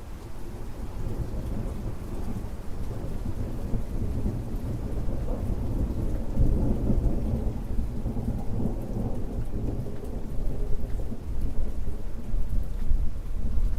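Rain falling with a long, low rumble of rolling thunder that swells about halfway through and grows louder toward the end.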